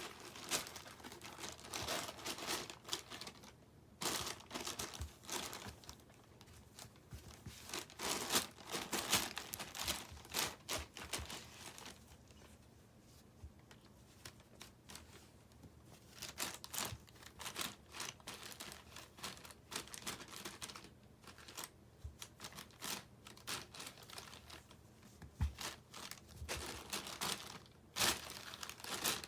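Crinkly packaging rustling and crackling in irregular bursts, with pauses between them, as a cat plays with it.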